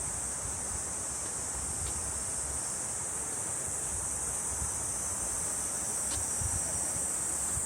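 Cicadas calling in a steady, high-pitched chorus, with a low rumble of wind on the microphone underneath.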